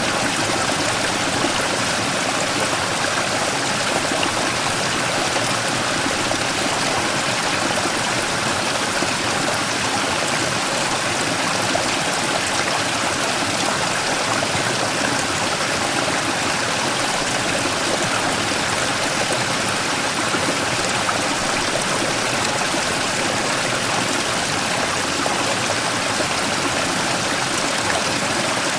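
Mountain stream rushing steadily over and around a large rock, a constant splashing hiss of water.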